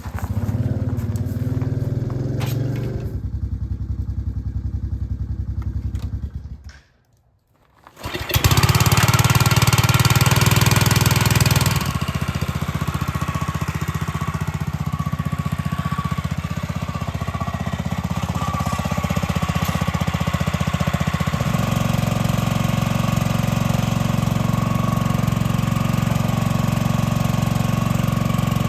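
An engine running steadily. It drops out briefly about seven seconds in, then comes back. Its sound shifts twice afterwards and settles into a steady low drone in the second half.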